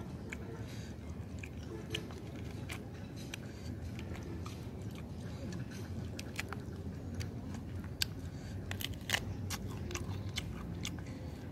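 A person chewing and biting into fried duck, with irregular crisp crunches and mouth clicks over a low steady background.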